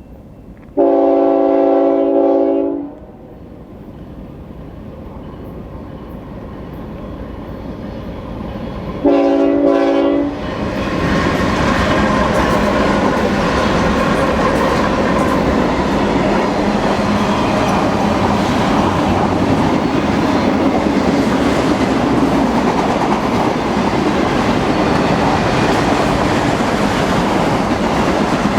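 Diesel locomotive horn on a BNSF freight train: one long blast, then about eight seconds later a short one. The train then passes with a steady rumble and clickety-clack of wheels on rail, growing louder as it comes up and then holding steady.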